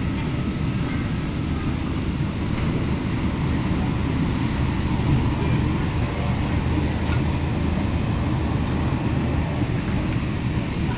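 Cabin noise of an MTR K-Train electric multiple unit running at speed: a steady low rumble of wheels on rail and running gear.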